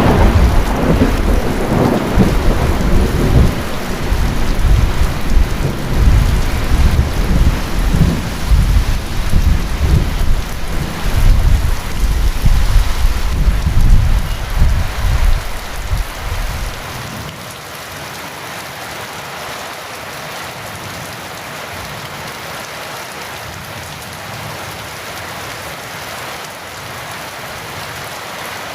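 Heavy rain with a long rolling rumble of thunder for about the first two-thirds; the thunder cuts off suddenly, leaving only the steady hiss of rain.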